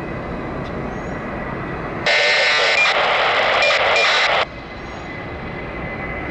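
Steady airport rumble of aircraft engines, broken about two seconds in by a loud burst of radio static on the tower frequency that lasts about two and a half seconds and cuts off suddenly: a keyed transmission with no words in it.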